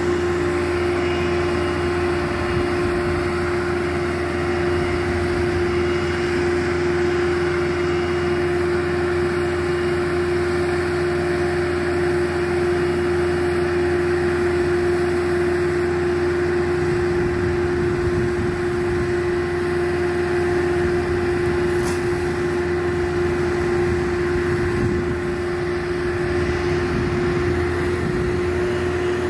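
A machine's motor running steadily, with a constant hum at one pitch and no change in speed.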